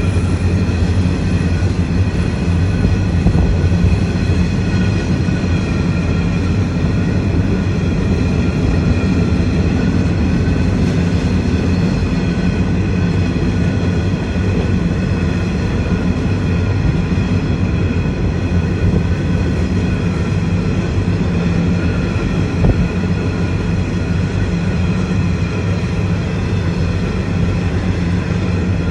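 A long train rolling past as a steady, continuous rumble, with faint steady whining tones above it and one small click near the end.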